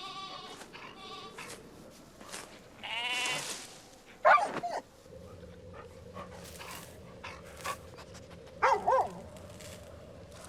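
A cartoon dog whining and yelping in short, high, bending cries, three or four calls a few seconds apart, over a low steady background from the film's soundtrack.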